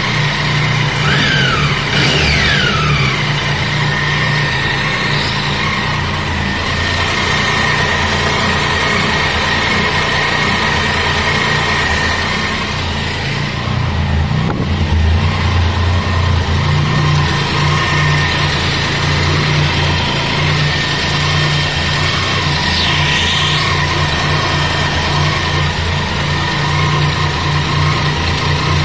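Triumph Tiger 800 inline three-cylinder engine running warm, with a steady high-pitched whine over the engine note. The owner suspects the valves; a dealer mechanic takes it for a normal characteristic of the triple.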